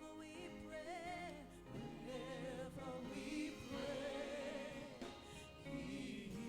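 Gospel worship music: a singer holding long notes with vibrato over sustained instrumental backing.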